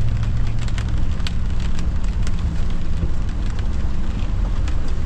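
A motorhome on the move, heard from inside the cab: a steady engine and road rumble, with scattered light ticks of drops hitting the vehicle.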